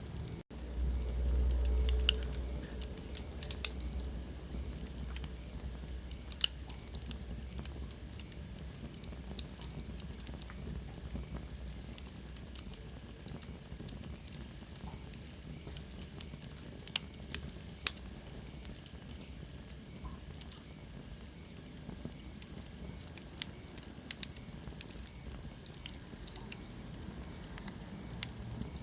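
Wood fire crackling in a fireplace: a steady hiss with scattered sharp pops and snaps. A low rumble swells for a couple of seconds near the start, and about two-thirds through a faint high whistle slides down in pitch over several seconds, like gas hissing from a burning log.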